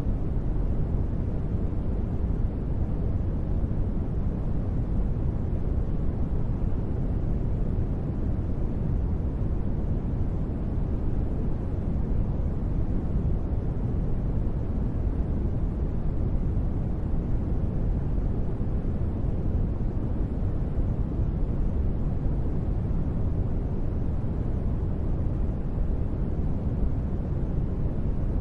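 Steady, deep ambient noise bed of the space-ambience kind: an even, unbroken wash with its weight in the low end and little hiss up high, never changing in level.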